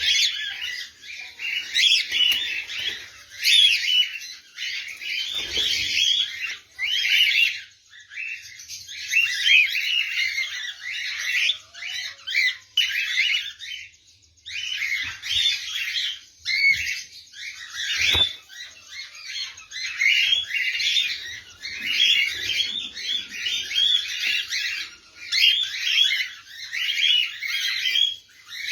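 A flock of caged lovebirds chattering and chirping shrilly and continuously, many birds calling over each other. There is a dull thump about five seconds in and a sharp knock past the middle.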